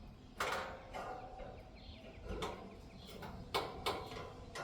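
Irregular light knocks and clicks from a 1960s Happy Home box fan being handled, its bent blade still striking the cage.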